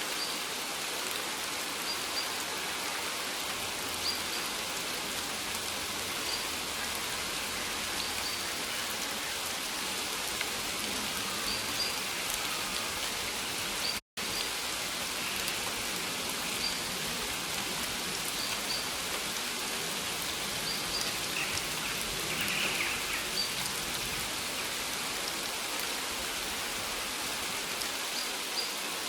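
Steady rain falling, an even dense patter. The sound cuts out completely for an instant about halfway through, then resumes.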